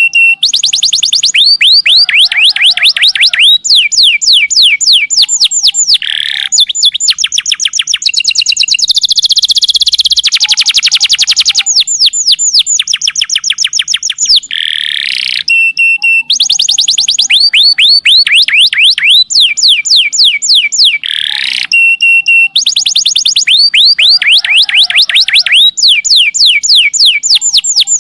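Domestic canary singing long, fast trills: phrases of quickly repeated high chirping notes, each run a few seconds long, with brief pauses between phrases. The same sequence of phrases comes round again about halfway through.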